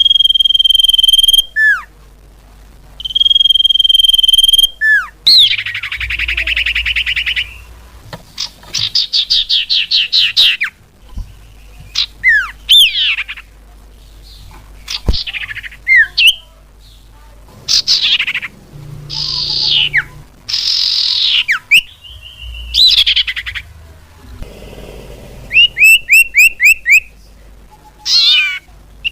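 Common iora (cipoh/sirtu) song and calls played as a bird-lure recording. It opens with two long, steady high whistles, then runs through fast trills, sharply falling slurred notes, and a quick series of repeated notes near the end.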